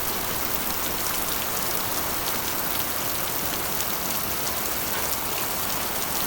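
Steady heavy rain drumming on a corrugated iron roof, a dense even patter with many small drop ticks.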